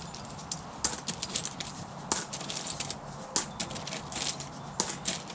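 Coins and small metal junk clinking as they are picked through and dropped while being sorted: a string of irregular light clinks.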